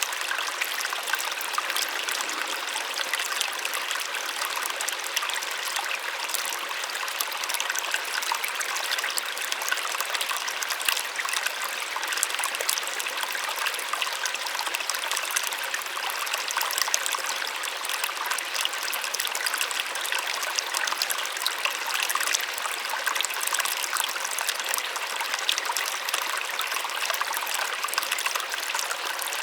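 Small waterfall splashing and trickling steadily, a soft continuous rush of water with fine, bright splashes.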